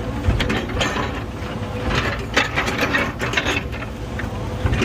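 Earthmoving machine moving dirt: its engine runs with a steady whine, under repeated irregular clanks and rattles of the machine and the dirt it is working.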